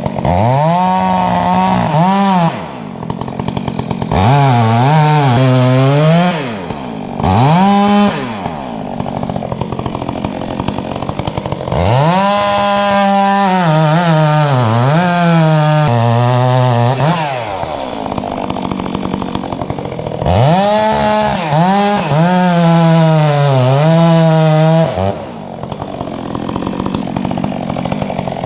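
Two-stroke Stihl chainsaw cutting into a tree trunk: the engine revs up to full throttle in about five bouts of one to five seconds, its pitch sagging and wavering under the load of the cut, and drops back to idle between bouts.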